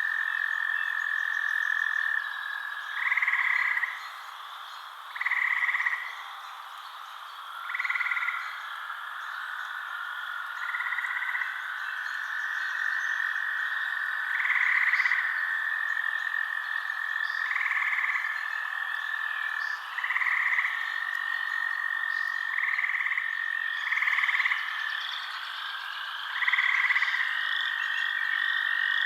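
Frogs calling at night: a steady high trilling chorus, with a louder call under a second long repeating every two to three seconds over a fainter high hum.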